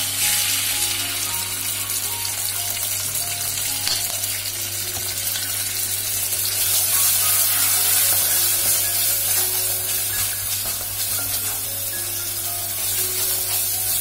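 Chopped garlic and tomato ketchup sizzling in hot oil in a nonstick saucepan, stirred with a wooden spatula. The sizzle gets louder for a few seconds about halfway through.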